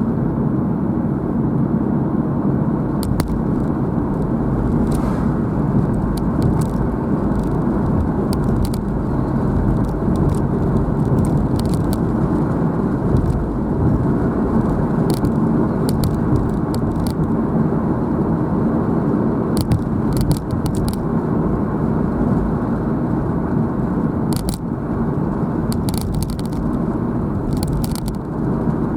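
Steady road and engine noise of a moving car, heard from inside the cabin, with scattered light clicks and crackles throughout.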